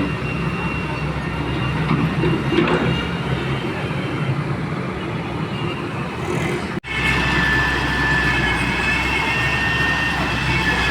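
Heavy excavator's diesel engine running steadily. About seven seconds in the sound drops out for an instant and comes back louder, with a high steady whine on top.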